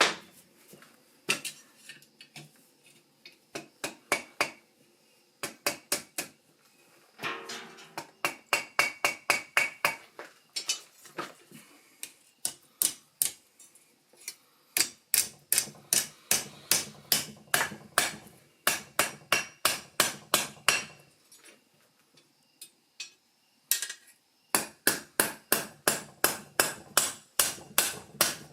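Hand hammer striking hot steel on an anvil in runs of blows, about two to three a second, with short pauses between runs and a ringing tone on the strikes, as the hook of a forged lion's-claw meat flipper is bent and refined.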